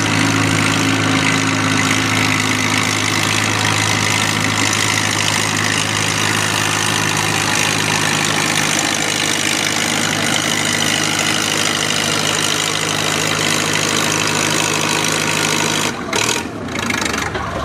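Farm tractor's diesel engine running at a steady speed with loud exhaust noise. About sixteen seconds in, the steady engine note cuts off abruptly and gives way to a broken, uneven rumble.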